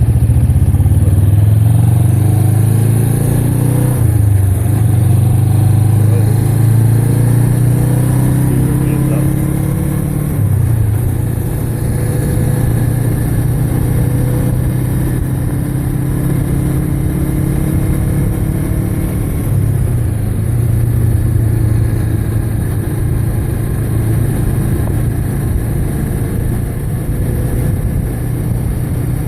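Motorcycle engine running under way on the road, with a steady low note throughout; its pitch slides up and down during the first dozen seconds, then holds steady.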